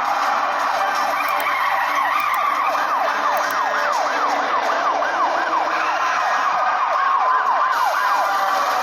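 Police siren in a fast yelp, a quickly repeating rise and fall about four times a second, starting about a second and a half in and stopping near the end, over the steady noise of a car engine and tyres on the road.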